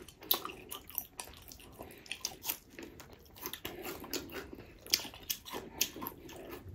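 Close-miked eating of pork feet: biting and chewing with many short, irregular clicks and smacks.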